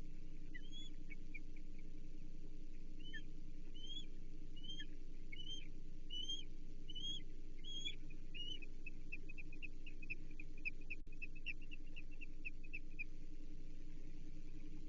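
Osprey calling: a series of high whistled chirps, each rising then falling, about one every 0.7 s. These run into a faster string of short chirps about halfway through and stop shortly before the end, over a steady low hum, with a single click about 11 seconds in.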